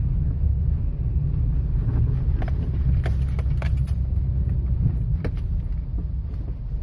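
Road rumble inside a moving Toyota Corolla, with several short rubbery squeaks from the front anti-roll bar bushings between about two and five seconds in. The squeaking comes from the aftermarket Masuma bushings, whose dense rubber-like material the owner blames.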